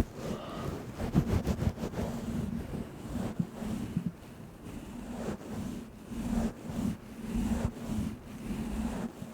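Close rustling and rubbing noise against the microphone, swelling and fading unevenly, with scattered clicks.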